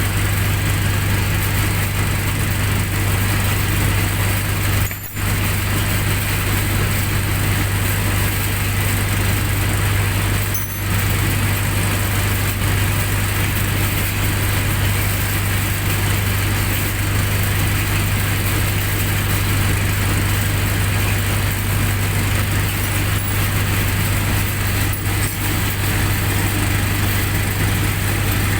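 Generator set engine running steadily with a constant low hum, briefly dropping out twice, about 5 and 10 seconds in.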